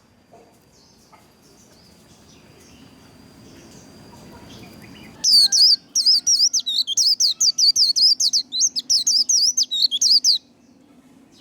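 White-eye (vành khuyên) singing its fast twittering 'líu' song, a rapid run of high chirps and trills. It starts about halfway in after a quiet stretch and stops about a second before the end.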